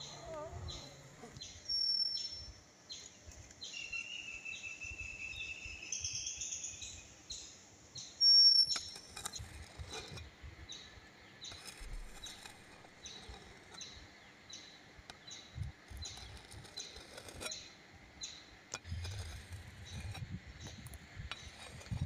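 Forest birds calling: short high chirps repeated throughout, a drawn-out rising call about four seconds in, and a loud, sharp call about eight seconds in.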